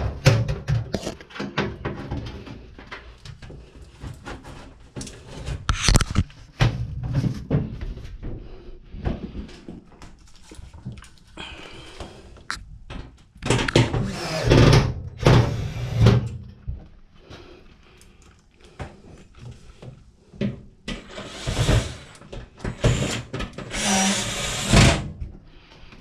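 Washer cabinet panel being handled and fitted back on: irregular clunks and knocks of sheet metal, with a few longer scraping stretches as it is slid into place.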